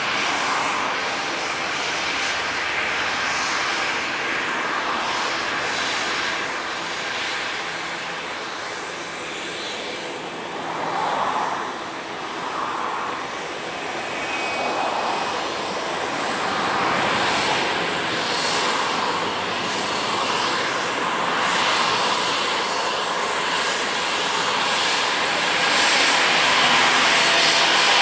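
Cessna 750 Citation X business jet's twin turbofan engines running, a steady rushing jet noise that grows somewhat louder near the end.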